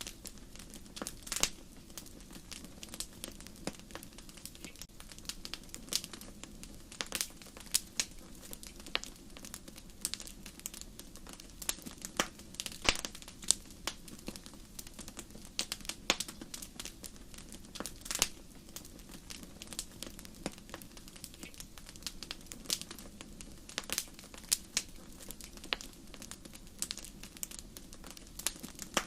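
Wood fire in a fireplace crackling: irregular sharp pops and snaps, some louder than others, over a steady low rumble of the flames.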